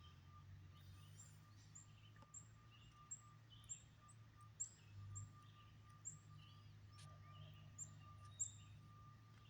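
Faint birdsong: a bird repeating short, very high chips, about one or two a second, with other softer bird notes in between, over a steady low hum.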